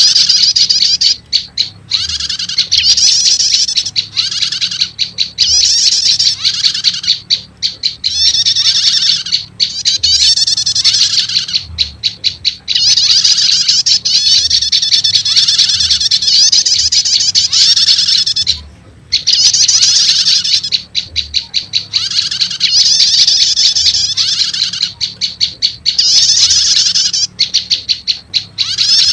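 Bird-lure recording of prenjak lumut calls mixed with a prenjak starter call: loud, rapid, high chattering trills in phrases of one to two seconds, repeated almost without pause, with a brief break about nineteen seconds in. A faint steady low hum runs underneath.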